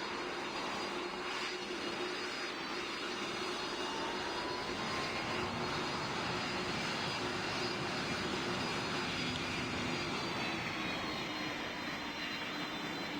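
Jet airliner's turbofan engines running: a steady rush with a high whine and a lower hum. The whine falls slightly in pitch near the end.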